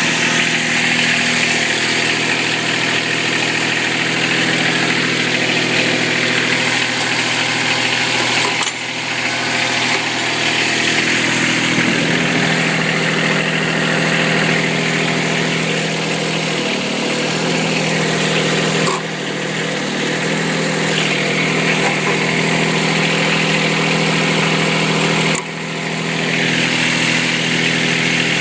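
Kubota diesel tractor engine running at a steady idle. Its note shifts slightly about twelve seconds in, and the sound briefly drops out with a click three times.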